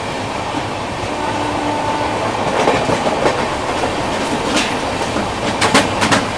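Two passenger trains running side by side at speed, heard from one of them: a steady rumble of wheels on rails, with sharp rapid wheel clicks over rail joints near the end.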